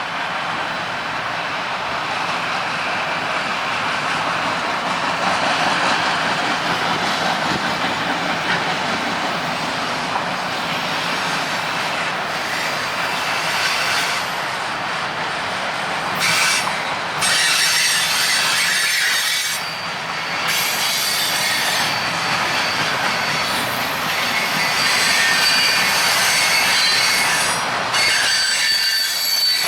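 Freight cars of a CPKC train rolling past on a curve, with steady wheel-on-rail noise. Steel wheel flanges squeal against the curved rail, the high squeal growing stronger in the second half.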